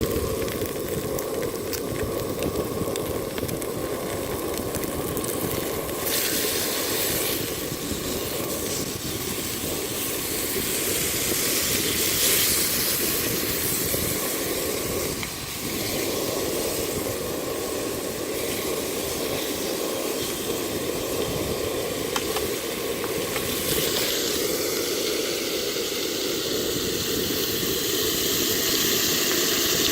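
Pork belly sizzling on a hot grill: a steady hiss of frying fat with occasional small pops.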